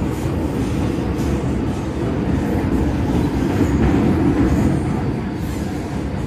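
MTR Kwun Tong Line M-Train running along the track: a steady low rumble of wheels and motors on the rails, growing a little louder midway, with a few faint clicks.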